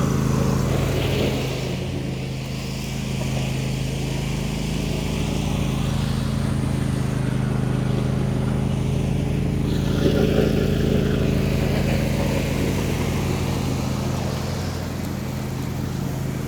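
John Deere D130 riding mower running steadily while mowing, a little louder about ten seconds in.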